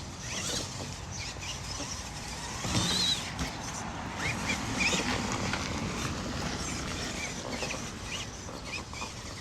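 Radio-controlled Axial monster truck driving, a steady noise with brief louder moments about three and five seconds in.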